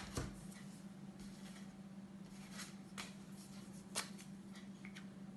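A few light clicks and taps with faint scratchy rustling, the handling sounds of someone drawing, over a steady low hum.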